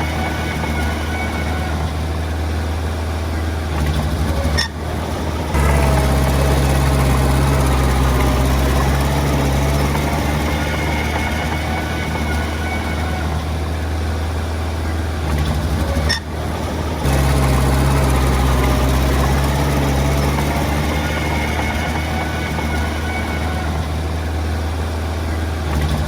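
Heavy diesel engine of earthmoving machinery running steadily at work, a deep drone. It dips briefly twice, about five and sixteen seconds in, and comes back a little louder each time.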